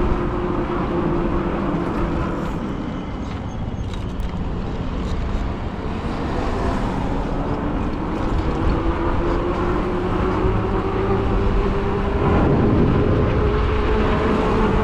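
Riding an e-bike: steady wind and road rumble with the electric motor's whine underneath, its pitch sagging lower through the middle and climbing back up near the end as speed changes.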